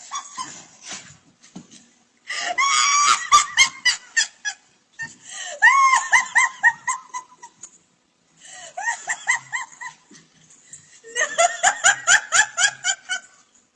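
High-pitched laughter in four fits of rapid, short ha-ha notes, with short pauses between them.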